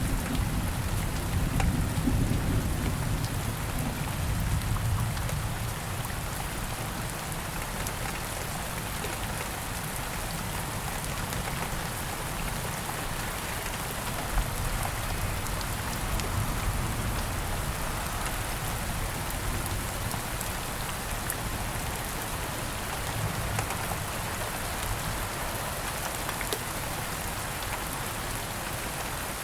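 Steady rain falling in the woods, a dense even patter of drops, with a low rumble of distant thunder dying away over the first few seconds. One louder drop hits sharply about halfway through.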